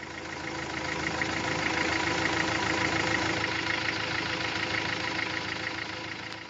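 Truck engine idling steadily with a fine regular ticking, fading in at the start and out near the end.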